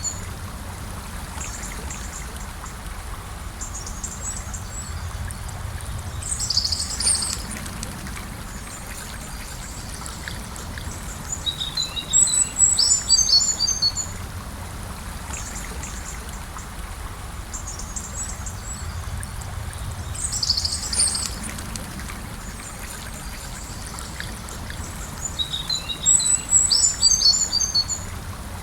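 Gentle river flowing steadily, with songbirds singing short phrases of quick high notes every six or seven seconds.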